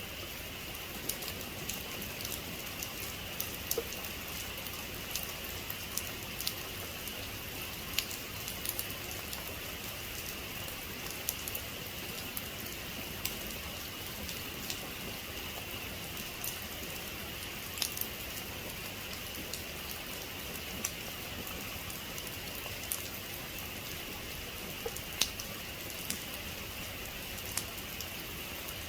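Steady rain, with the sharp taps of single drops landing now and then. No thunder is heard.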